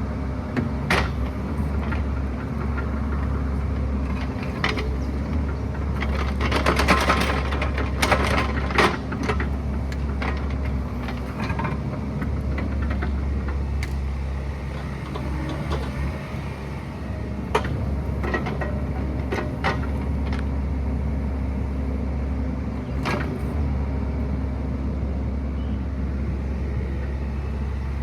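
Excavator's diesel engine running at a steady speed, with scattered knocks and rattles over it, a dense cluster of them about seven to nine seconds in.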